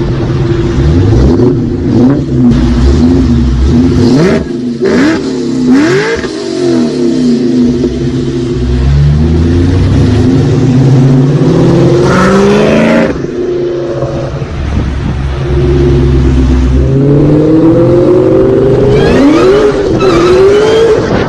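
Ford Mustang Cobra V8 running with its supercharger whining, revved several times so that the engine note and the whine rise and fall together between stretches of steady running.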